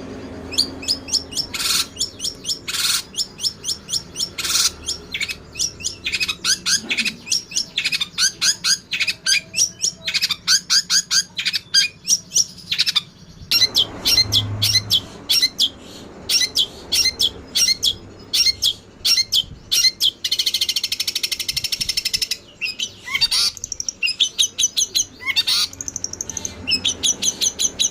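Songbirds chirping and twittering in fast, unbroken runs of short high notes, with a harsh rasping chatter about two-thirds of the way through. This is bird-training song material of the kind played to long-tailed shrikes.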